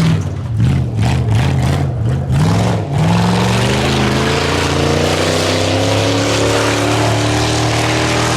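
Race truck engine revved in quick throttle blips for about three seconds, then held wide open with its pitch climbing steadily as it pulls away.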